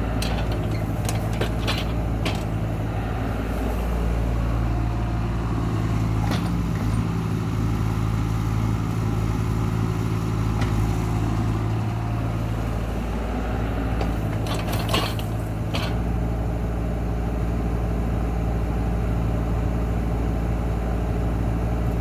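CAT excavator's diesel engine running steadily under work, with sharp metallic clanks now and then, a few near the start, one around six seconds in and a cluster around fifteen seconds in.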